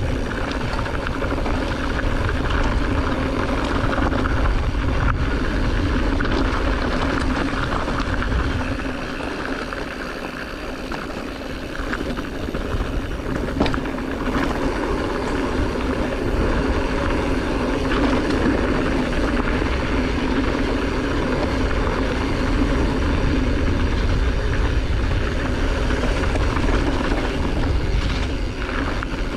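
Steady rush of wind on the microphone and tyre noise from a mountain bike rolling downhill on a wet dirt driveway, with a low rumble throughout that eases slightly about a third of the way in.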